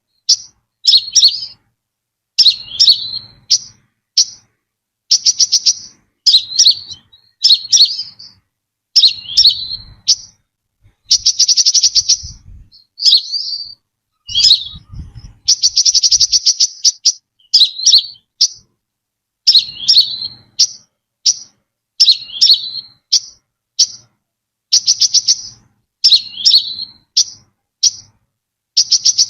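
Brown-throated sunbird calling over and over in short, high chirping phrases, about one a second. Two longer rattling trills come around 11 and 15 seconds in.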